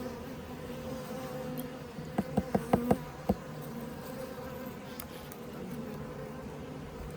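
Honeybees buzzing at an open hive, a steady hum. A little over two seconds in comes a quick run of about six sharp clicks or taps.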